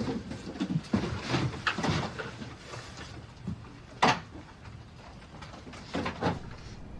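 A series of short knocks and clicks over a low background noise, the sharpest single click about four seconds in and two more near six seconds.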